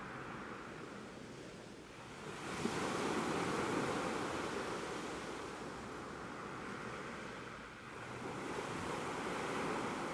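Ocean waves washing in and ebbing away, with two slow swells: one building about two seconds in and fading, and another rising near the end.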